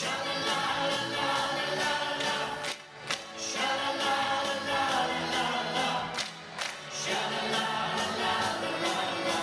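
A choir singing with a band accompaniment.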